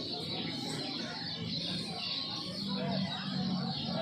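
Many caged kecial kuning (lemon-bellied white-eyes) chirping and trilling at once in a dense overlapping chorus, with a steady low hum underneath that grows stronger about halfway through.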